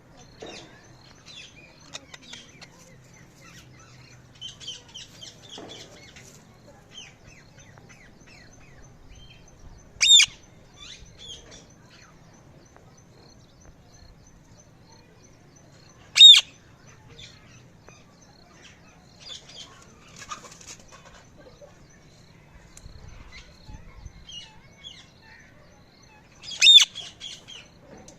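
A parrot calling: three loud, short, high calls, about six and ten seconds apart, with quieter chirps and twitters in between.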